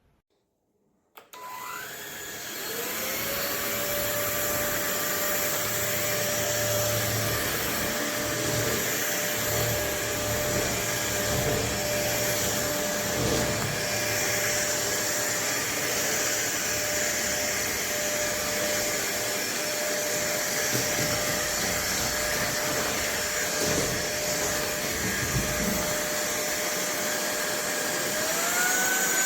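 Cordless stick vacuum cleaner switched on with a click about a second in, its motor spinning up over a couple of seconds into a steady whine over a rush of airflow. Near the end the pitch rises again as the motor speeds up.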